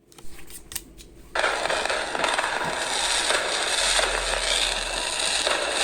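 Firecrackers: a few separate sharp pops, then from about a second in a sudden dense run of continuous crackling.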